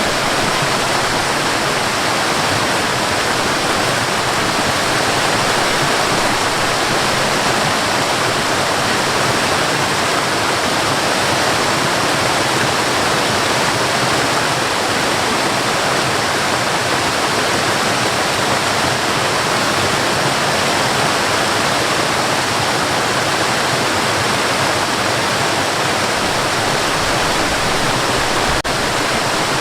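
Waterfall: a steady, unbroken rush of falling water, an even hiss that does not change. A faint click sounds near the end.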